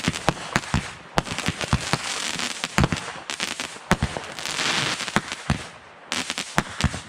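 Fireworks and firecrackers going off: a rapid, irregular string of sharp bangs and pops, with a hissing rush of noise a little past the middle.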